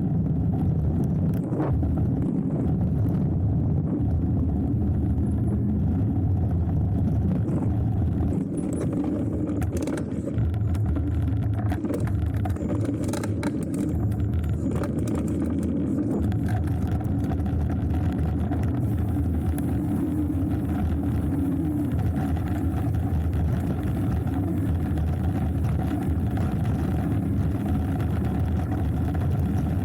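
Steady rumble of a hardtail mountain bike's tyres rolling down a dirt trail, mixed with wind rushing over the camera's microphone, with a few sharp clatters from the bike over rough ground between about ten and sixteen seconds in.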